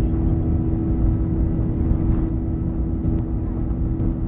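Boeing 737-800's CFM56 jet engines running, a steady low rumble with a steady hum over it.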